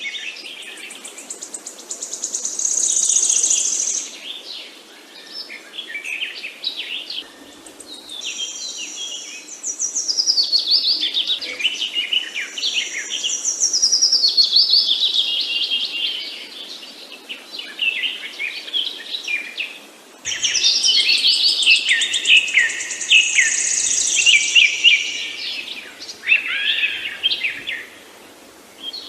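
Several songbirds chirping and singing over one another in busy stretches of a few seconds, with quieter lulls in between.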